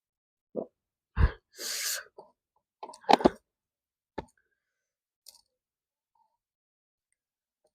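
Close-miked eating sounds: a few separate mouth smacks and chewing clicks, with a breathy hiss of about half a second and the loudest pair of smacks about three seconds in.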